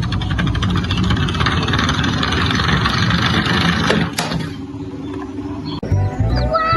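A car engine sound revving with a fast rattle for about four seconds, ending in a short rising whoosh. Near the end a cartoon tune with sliding, falling notes starts suddenly.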